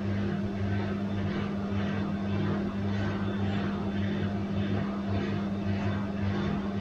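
Bosch washing machine running: a steady motor hum with a swish repeating about twice a second as the drum turns.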